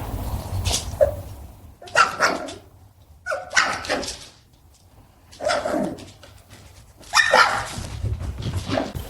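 A dog barking several times, in separate barks spread a second or more apart.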